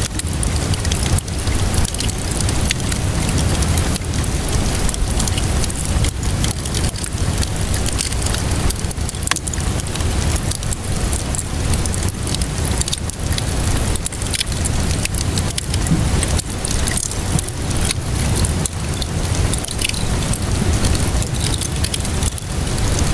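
Wood fire crackling with many small irregular pops over a steady wash of rainfall, with a low rumble underneath.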